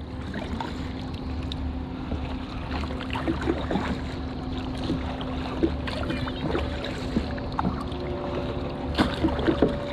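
Kayak paddling: small water splashes and drips from the paddle strokes over wind noise on the microphone, with a steady low hum behind them.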